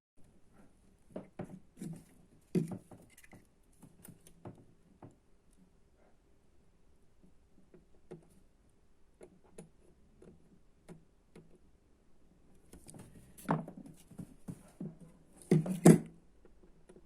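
Irregular small clicks, taps and knocks of small parts and tools being handled on a workbench, sparse at first, with a louder cluster of knocks near the end.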